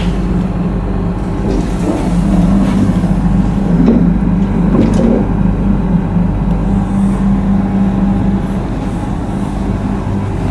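Steady low mechanical hum with a couple of droning tones, slightly louder and rumbling for a few seconds near the start, with a few faint clicks.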